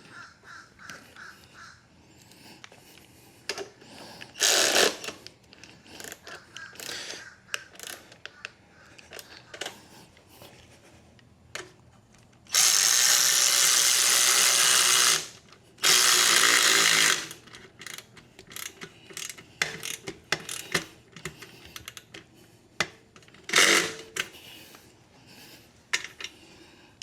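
Hyper Tough cordless electric ratchet running in two bursts a little past the middle, the first about two and a half seconds long, the second about a second and a half. Around them, scattered clicks and knocks of tools being handled.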